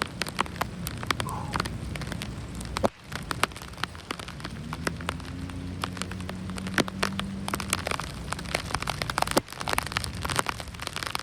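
Steady rain, with many sharp, irregular ticks of raindrops striking close to the microphone over an even hiss. A faint low hum sits underneath in the middle.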